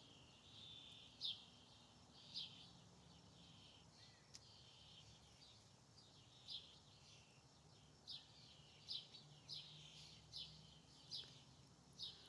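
Faint outdoor birdsong: a small bird giving short, high, downward-sliding chirps, repeated roughly once a second.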